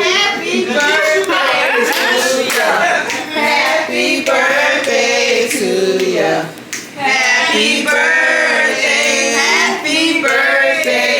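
A group of people singing together in mixed voices, with some hand clapping, breaking off briefly about two thirds of the way through.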